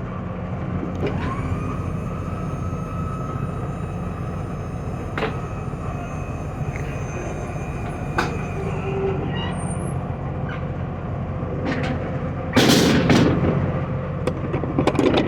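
A steady low engine hum from an idling truck, with a few sharp clicks and a loud burst of noise lasting about a second, around 12 seconds in.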